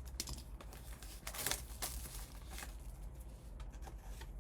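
Packaging wrapper being crinkled and torn by hand as a trading-card pack is opened, in irregular rustles with a couple of louder tears about a second and a half in.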